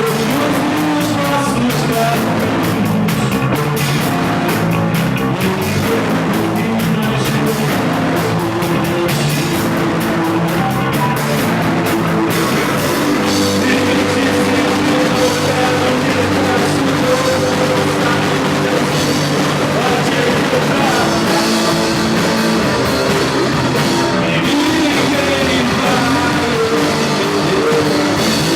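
Rock band playing live, with drum kit and guitars.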